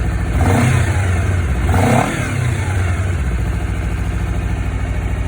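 Honda CBR250RR (MC51) water-cooled parallel-twin engine through its stock muffler. The throttle is blipped twice in the first two seconds, the revs rising and falling each time, and then the engine settles to a steady idle.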